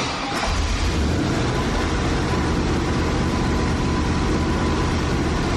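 Turbocharged 5.7-litre LS1 V8 starting on its first start on new Holley Terminator X engine management, catching almost at once and then running steadily.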